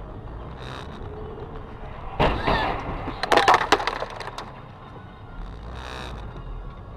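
Vehicle collision heard from a car's dash camera: a heavy impact about two seconds in, then a second or so of sharp cracking and crunching, over steady road noise.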